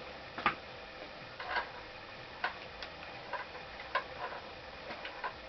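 Light, unevenly spaced clicks and ticks, roughly one or two a second, from working on the parts of a Honda CX500 engine under teardown.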